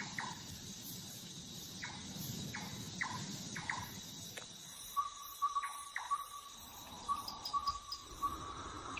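Insects trilling steadily in a forest at dusk. A few short falling chirps come in the first half, and from about halfway a fast run of clicking pulses at one pitch.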